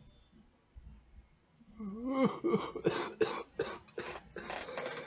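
A man coughing after a hit of marijuana smoke. About two seconds in comes a short voiced sound, then a run of short coughs.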